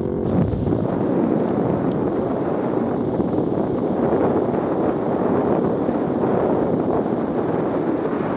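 Steady wind roar over the microphone of a vehicle travelling at road speed.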